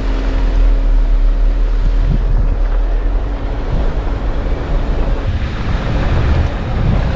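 Strong wind buffeting the microphone over the steady running of a Jeep Rubicon driving a dirt trail; a steady hum drops out about six seconds in.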